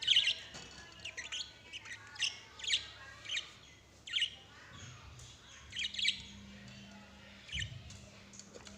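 Lovebirds giving short, sharp chirps, most dropping in pitch, at irregular intervals.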